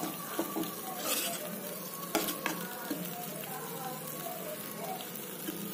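Chopped tomatoes sizzling as they fry in oil in a pan, being cooked down until soft. A steel spoon stirring them scrapes and clicks against the pan a few times.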